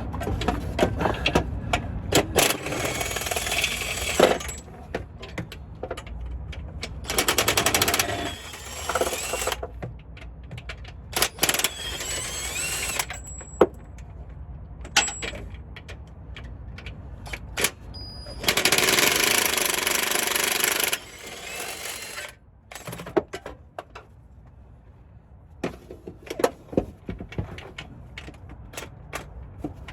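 Cordless impact wrench hammering in four bursts of two to three seconds each, loosening bolts, with sharp clicks and clanks of tools and metal between the bursts.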